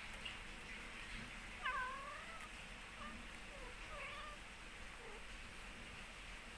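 Kittens mewing: several short, high-pitched mews, the loudest about two seconds in and fainter ones after it.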